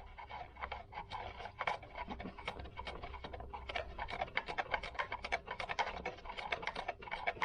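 Hands handling small engine parts and wiring: a quick, irregular run of light clicks, taps and scratches, several a second.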